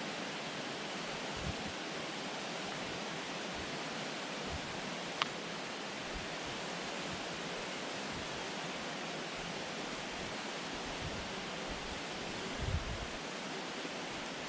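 Steady, even hiss with no tone or rhythm, a single faint click about five seconds in, and a few soft low bumps.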